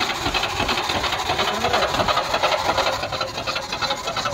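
Car engine running just after being started, a loud, steady, rattly noise heard close up.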